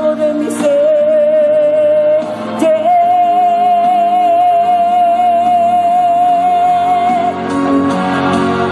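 A solo singer holds long, high notes with vibrato over a backing track, closing the chorus line. The last note is held for about four seconds and stops about seven seconds in, and the accompaniment carries on alone.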